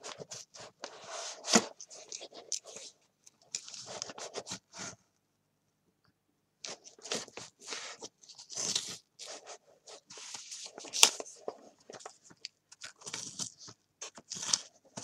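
Paper crunching and scraping in irregular short strokes as a folded book is cut apart and handled. A sharp crunch comes about a second and a half in and another near the end of the second third, with a brief dead-silent gap in the middle.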